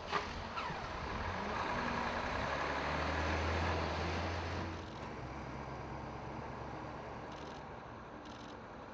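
Volvo FMX truck's diesel engine running hard, louder from about two seconds in and easing off just before five seconds, with a short knock near the start.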